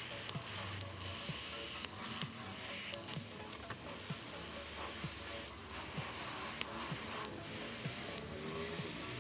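Paint being sprayed onto model kit parts: a hiss in several bursts that start and stop, strongest in the second half.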